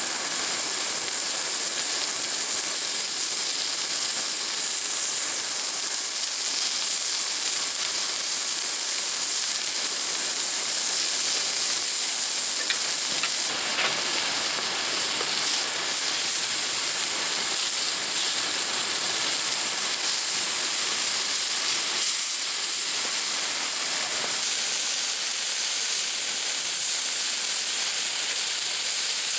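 Steady hiss of rain falling, with a few faint drop taps; it gets slightly louder a few seconds before the end.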